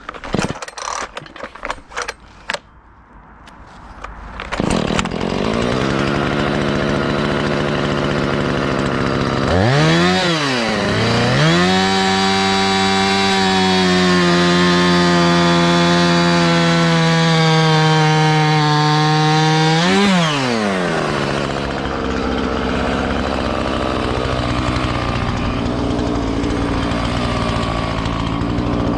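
Small two-stroke chainsaw engine: a few knocks, then it starts about four seconds in and idles, is revved up at about ten seconds and held at high revs for about ten seconds, then drops back to a steady idle.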